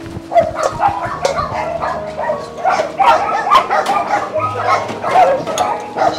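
A pack of dogs barking and yipping over one another in quick short calls, excited at feeding time as they scramble for dog food. Background music plays underneath.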